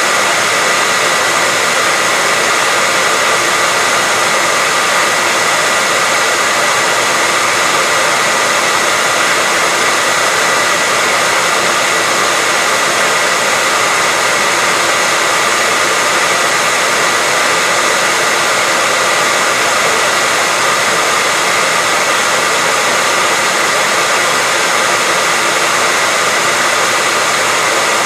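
Hair dryer running continuously: a steady rushing blow of air with a constant high whine from its motor, unchanging throughout.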